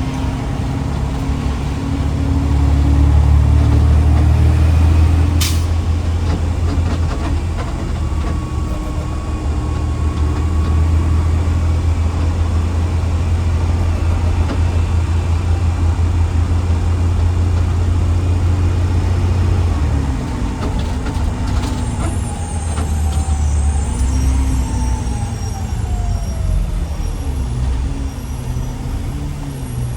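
Garbage truck's engine running on the road, with a short sharp hiss about five seconds in. After about twenty seconds the engine note drops and wavers, then falls further near the end.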